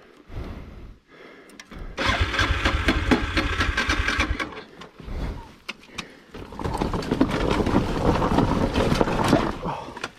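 Motorbike engine revving in two loud bursts, the first about two seconds in and the second from about six and a half seconds, with scattered clicks and knocks, as the bike is worked on a steep dirt climb.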